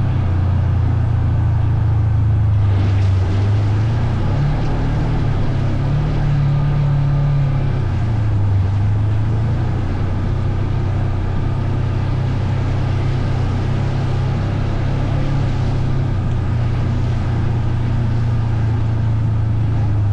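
Vehicle engine running steadily under way, with its pitch stepping up and down a little a few times. There is a steady rush of road or wind noise over it.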